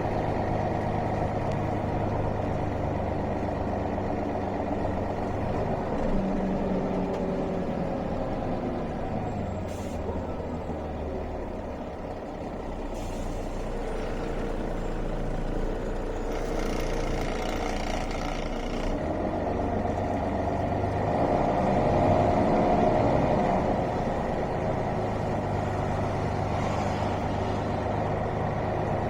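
Mercedes-Benz O405 city bus on the move, heard from aboard: its engine running throughout, the pitch rising and falling as it pulls away and changes gear. A few seconds of air hiss from the bus's compressed-air system come about sixteen seconds in.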